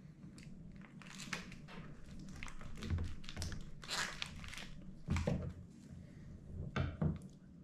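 Food packaging being handled: irregular crinkling and tearing of plastic wrap, with a few soft knocks.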